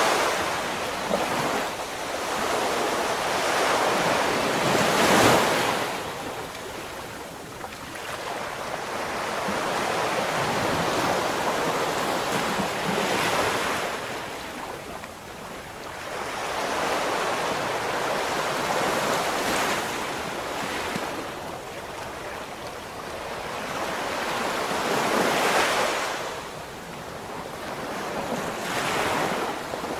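Ocean waves breaking and washing up the shore in slow surges that swell and fade every several seconds.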